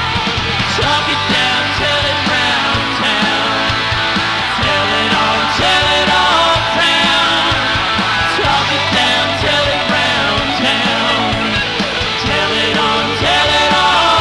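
Live rock band playing a song, with electric guitars, bass guitar and drums, heard on an old cassette recording of the show.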